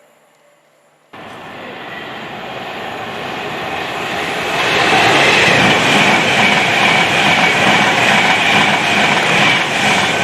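A passing train's rolling rumble and wheel noise on the rails, starting abruptly about a second in and growing louder over a few seconds, then holding loud and steady.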